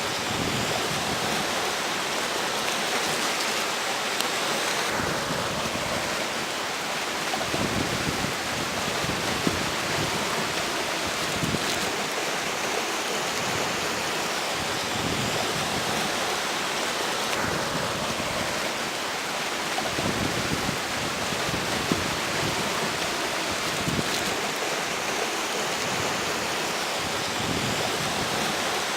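Flowing river water rushing steadily, with strong wind gusting over it and buffeting the microphone in irregular low rumbles.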